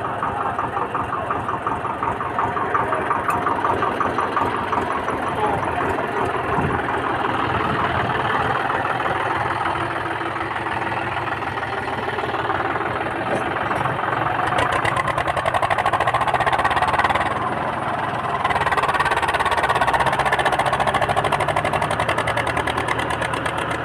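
Tractor engine running steadily with a fast knocking beat. The level dips briefly about three-quarters of the way through.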